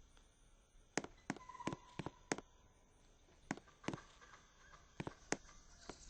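A series of sharp, short clicks or knocks at irregular intervals, about nine of them, over a quiet background.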